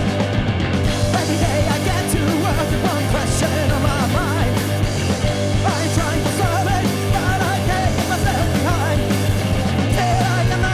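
Live rock band playing loud, distorted music with a steady bass, and a voice or lead line wavering over it.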